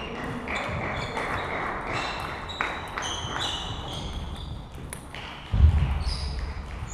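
Table tennis balls clicking off bats and tables in a sports hall, in irregular strings of sharp knocks with short high ringing tones between them. A heavy low thump comes about five and a half seconds in.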